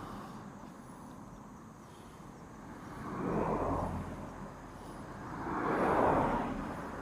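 Two vehicles passing by on the road, each a swell of tyre and engine noise that rises and fades: one about three and a half seconds in and a louder one about six seconds in.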